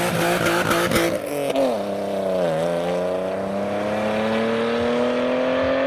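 BMW E36 engine held at high revs with tyre noise, the revs dropping about two seconds in and then climbing slowly and steadily as the car accelerates away.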